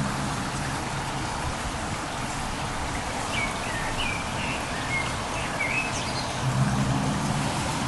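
Steady outdoor background noise with a low hum that swells near the start and again about six and a half seconds in, and a few short bird chirps in the middle.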